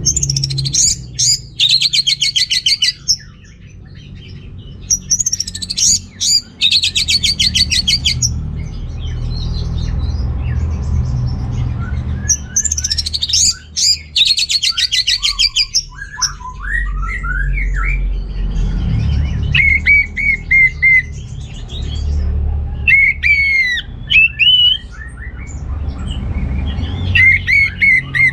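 Orange-headed thrush singing: three loud bursts of very fast, rattling repeated notes, each about two to three seconds long, then a run of shorter, sliding whistled phrases in the second half, over a low background rumble.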